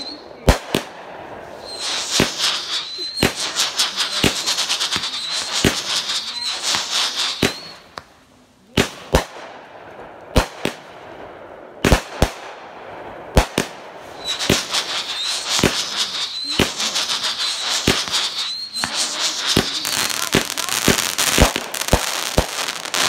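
Brothers Rap Sheet Copper Devils 200-gram firework cake firing: a string of sharp launch shots and bursts, with two long stretches of dense crackling mixed with whistles. There is a short lull about eight seconds in.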